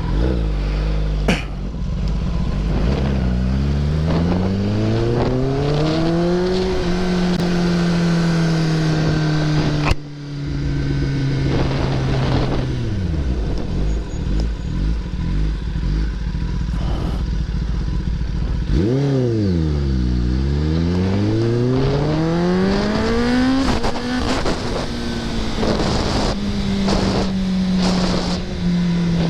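Kawasaki ZX-10R's inline-four engine under way. Its pitch climbs over a few seconds, holds, then falls. Around two-thirds of the way through it drops sharply and climbs again, then holds steady near the end.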